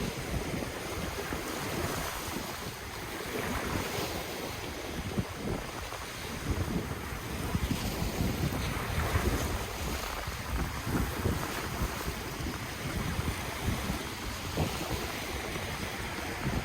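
Ocean waves washing in on the shore, with wind buffeting the microphone in uneven low rumbles.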